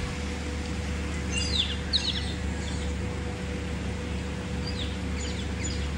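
Birds chirping, a few quick high chirps sweeping down in pitch about a second and a half in and again about five seconds in, over a steady low hum.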